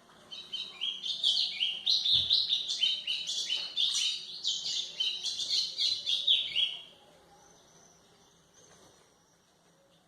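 A golinha (white-throated seedeater) singing one long, fast song of many short sweeping chirps, which stops about seven seconds in.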